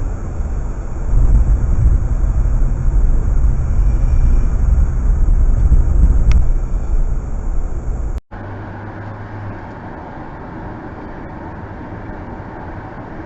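Car driving: a steady, loud low rumble of engine and road noise that cuts off abruptly about eight seconds in, followed by quieter, steady road noise from another car.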